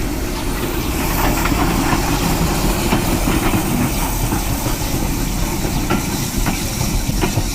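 Wind buffeting the microphone: a loud, steady low rumble with a hiss above it and a few light clicks.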